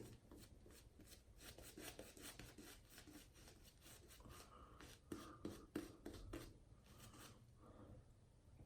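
Faint, quick swishing and rubbing strokes of a silvertip badger shaving brush working up lather, a few of them louder a little past the middle.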